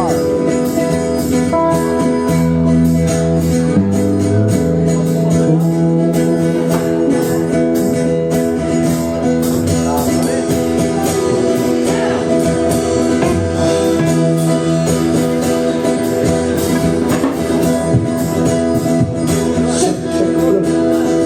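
Folk band music: strummed acoustic guitar and a tambourine keeping a steady rhythm over sustained low notes.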